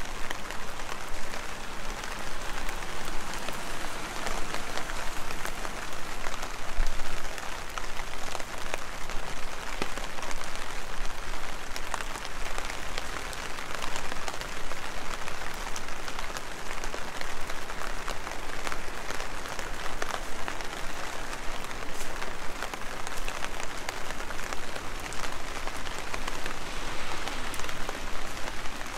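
Heavy rain falling steadily, a dense hiss of rain with many individual drops ticking through it.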